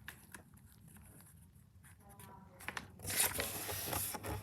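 A sheet of paper being folded lengthwise and creased: a few faint taps and rustles, then about three seconds in a louder stretch of paper rustling for about a second.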